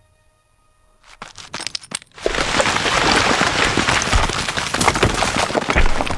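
Rocks and scree clattering down a mountainside. Scattered sharp clicks start about a second in and turn, about two seconds in, into a loud continuous rattle of cracks, like a rockfall set off as a leopard and its prey tumble down the slope.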